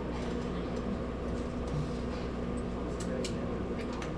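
Steady low electrical hum from a switched-on stage sound system, with a few sharp clicks about three seconds in.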